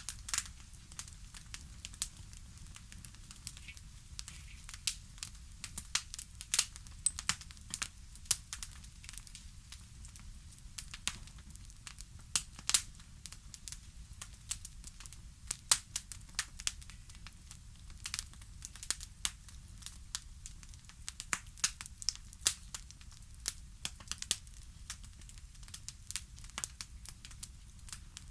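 Fireplace crackling: a wood fire with many irregular sharp pops and snaps, several a second, over a soft low rumble.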